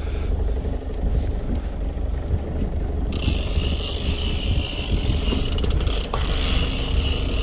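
The boat's motor runs with a steady low rumble, and about three seconds in a steady hiss comes in on top of it.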